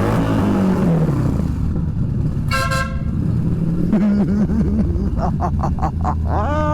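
A train-style motorcycle horn sounding one long, steady, low blast, with a short higher beep about two and a half seconds in.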